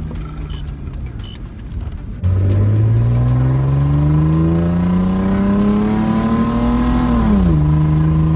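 Car engine accelerating hard: about two seconds in it comes in suddenly and loud, its pitch climbing steadily for about five seconds, then dropping sharply as it shifts up a gear and running on at lower revs.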